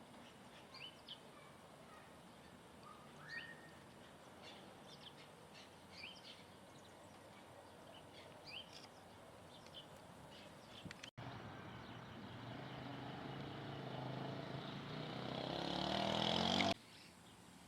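Small birds giving short, high chirps over faint background noise. About eleven seconds in, after a brief dropout, a motor's sound rises steadily in pitch and loudness, then cuts off abruptly near the end.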